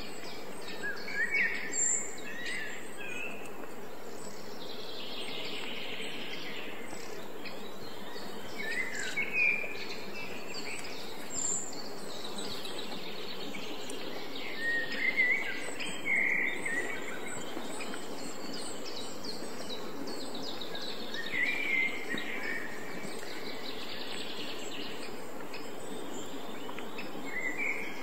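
Small birds chirping and twittering every few seconds over a steady background hiss of outdoor ambience.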